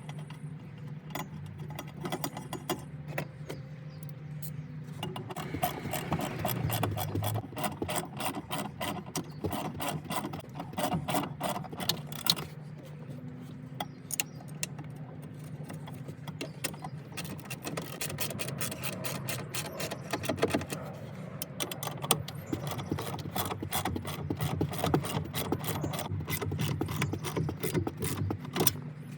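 Repeated clicking and rattling of car parts being handled and fitted back into place, over a low steady hum. The clicks come thickest in two long stretches, one about 5 to 12 seconds in and another from about 17 seconds on.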